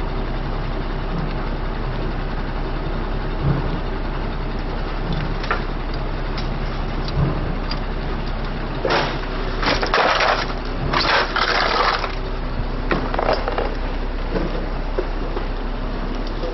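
A heavy vehicle's engine runs steadily at idle, with scattered knocks and clanks. About nine seconds in come roughly three seconds of loud, harsh crunching noise, which ends around twelve seconds.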